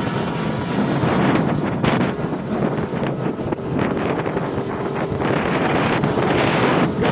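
Wind buffeting the microphone: a loud, uneven rushing noise that swells and drops.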